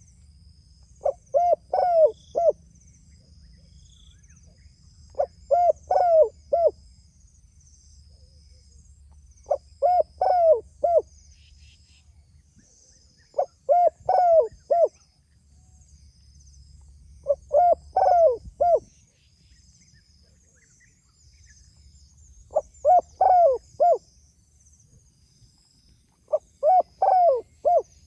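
Spotted dove (tekukur) cooing: seven short phrases of four or five low notes, repeated about every four seconds. Faint high chirps of other birds or insects run underneath.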